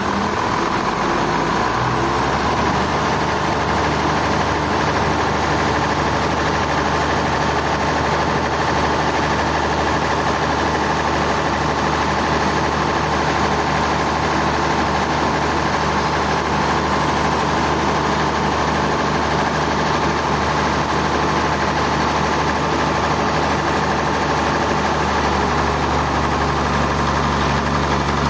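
Sawmill engine running steadily at a constant speed, a continuous hum with no changes in pitch or load.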